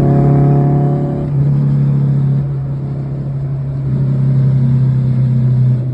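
Car engine running loud at steady high revs, a strong droning note held for several seconds, as in a hard pull from a stop.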